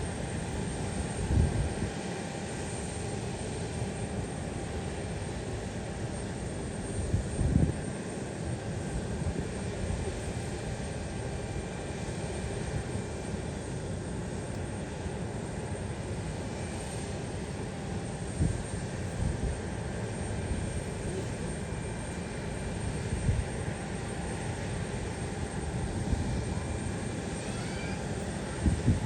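Steady noise of a distant airliner's engines with a faint high whine, broken by a few short low thumps.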